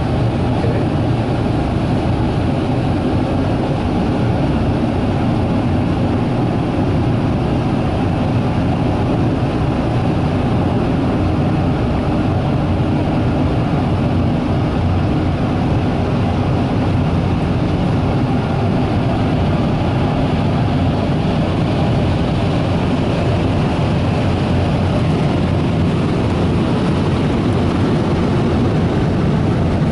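Ryko SoftGloss XS 2 car wash dryer blowers running: a loud, steady rush of air over the car.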